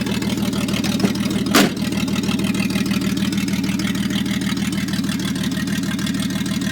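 1984 GMC S15 pickup's engine idling steadily after a cold start, with the truck long unused. A brief loud thump about one and a half seconds in.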